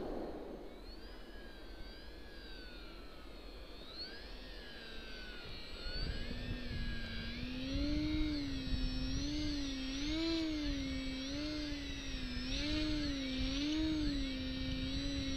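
Electric RC plane's brushless motor and propeller whining, the pitch rising and falling about once a second with the throttle. Wind rumbles on the microphone from about halfway in.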